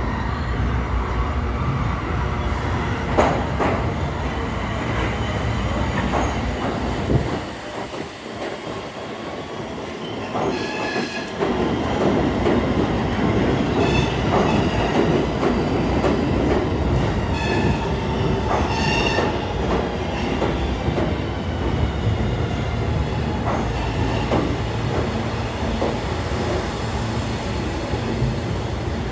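Subway train running on the rails with a steady rumble and clatter. The wheels squeal in high tones about ten seconds in and again just before twenty seconds.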